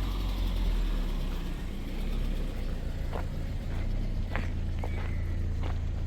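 Steady low rumble of a vehicle running, with a few light clicks or knocks in the second half.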